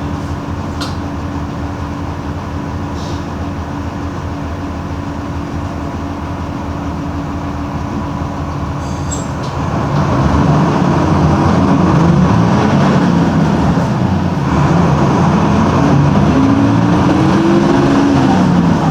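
Mercedes-Benz OM-366LA six-cylinder turbo diesel of an OF-1721 bus, running at a steady note at first. About halfway through it gets louder as the bus pulls away. The engine revs up and drops back three times as the five-speed manual gearbox is shifted up.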